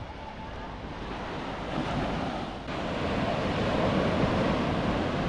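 Sea waves breaking and washing up on a beach, with wind on the microphone. The surf grows louder about halfway through.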